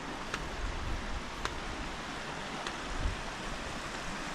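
Steady rushing of a river flowing close by, with three faint ticks about a second apart.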